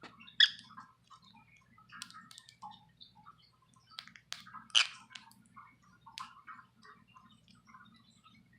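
Budgies nibbling and cracking seed treats: a scattered run of small crunching clicks, with two louder, sharper sounds about half a second in and near five seconds.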